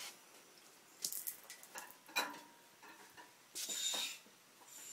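Scattered clinks and scrapes of metal while an engine hangs on an engine hoist and is lowered slowly: a few short bursts about a second in, another just after two seconds, and a longer scraping stretch near four seconds.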